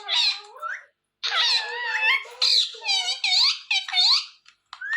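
Rose-ringed (ringneck) parakeet chattering in high, squeaky, wavering calls, with short breaks about a second in and near the end.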